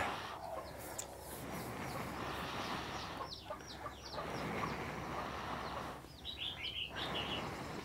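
Birds chirping: short, high, falling chirps come in small clusters a few times, over a steady background hiss.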